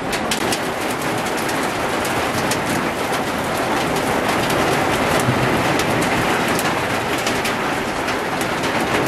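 Heavy rain pouring steadily, with many sharp taps of drops striking hard surfaces.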